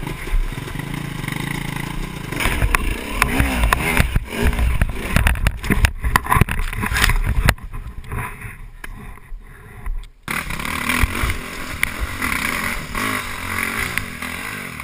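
Dirt bike engine revving up and down unevenly, with repeated knocks and clatter through the first half and a sudden change in the sound about seven and a half seconds in.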